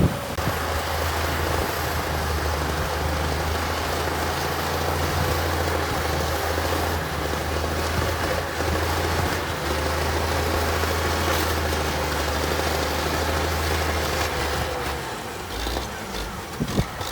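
Heavy diesel engine of earthmoving equipment running steadily, a low constant hum under a broad mechanical noise. The low engine note drops away about fifteen seconds in.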